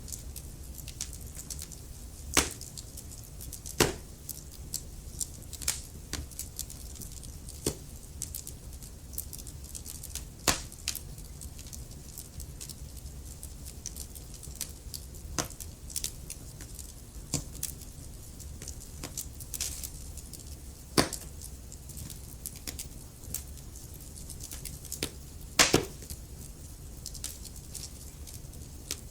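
Wood fire in a fireplace crackling: a steady low rumble of the flames with frequent small irregular crackles and a handful of sharper, louder pops.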